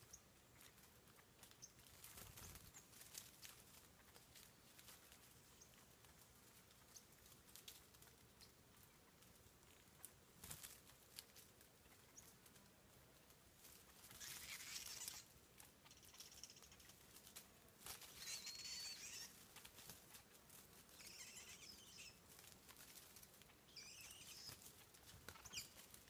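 Faint, scattered ticks and rustles in the leaf litter from ant-following birds foraging at a swarm of ants. In the second half come several short, scratchy bird calls, one with a brief whistled note.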